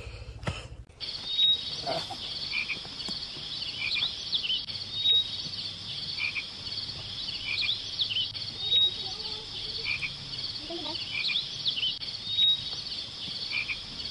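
A chorus of frogs and insects: a steady high chirring, a short sharp whistle repeating about every three and a half seconds, and scattered lower chirps. It sets in about a second in.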